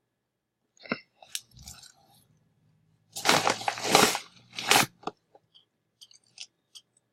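Crinkling plastic packaging as a squishy is handled, with a sharp click about a second in, a burst of crinkling from about three to five seconds in, and a few light ticks near the end.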